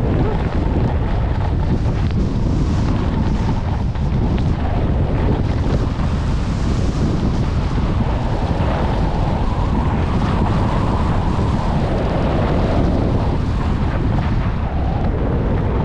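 Loud, steady wind noise buffeting the microphone of a skier going downhill at speed, mixed with skis hissing over groomed snow.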